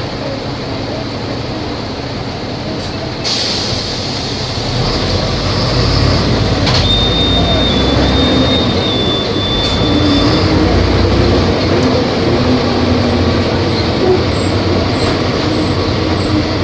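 Volvo B270F bus's diesel engine running under load, growing louder and heavier from about four to five seconds in, with its note rising later on. A sudden hiss comes in about three seconds in, and a thin high whine runs for a few seconds around the middle.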